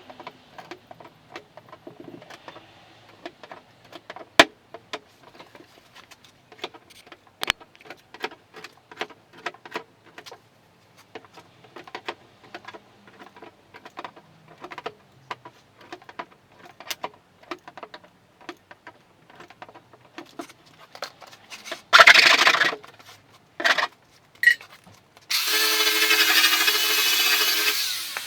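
Light, irregular taps and clicks of bodywork on a car panel for about twenty seconds, then a short loud burst and a power tool running for about three seconds near the end.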